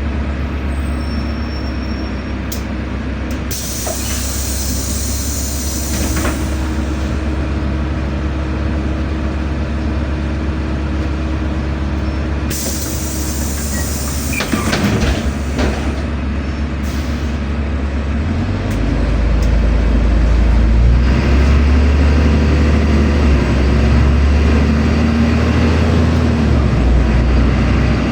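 Inside a LiAZ-5292.65 city bus: the engine running steadily, with two bursts of compressed-air hiss from the bus's pneumatics, some clicks and knocks, then the engine growing louder about two-thirds of the way through as the bus pulls away.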